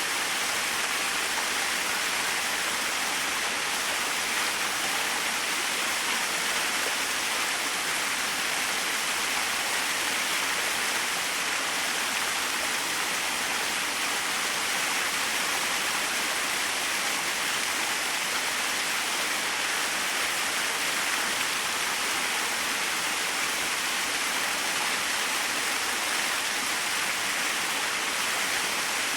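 Small waterfall splashing, a steady even rush of falling water with no change in level.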